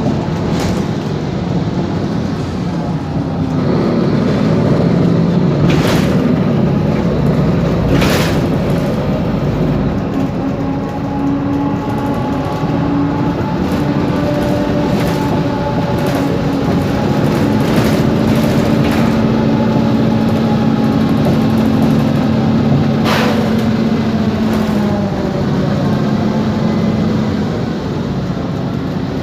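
Mercedes-Benz Conecto G articulated bus on the move, its OM457LA inline-six diesel running under steady load with a gear whine from the differential that rises and falls in pitch. Several sharp knocks and rattles from loose parts come through: one about a second in, two near the six- and eight-second marks, and another later on.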